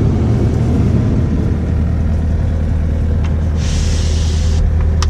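Kubota KX057-5 mini excavator's diesel engine running steadily at low throttle, heard from inside the cab as a constant low hum. About three and a half seconds in, a brief hiss lasts about a second, and two sharp clicks follow near the end.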